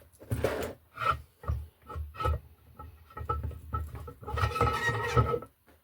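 Irregular rubbing and scraping handling noises, a string of short strokes about every half second, growing heavier near the end, as parts and the phone are handled during o-ring fitting.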